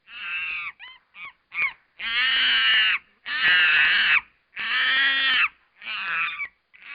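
Monkey calls: a few short chirps, then a run of long, loud, shrill calls about a second each, with shorter calls near the end.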